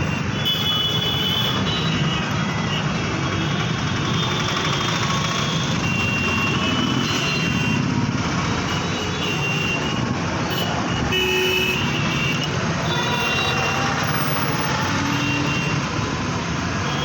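Steady road-traffic noise with short vehicle-horn toots now and then.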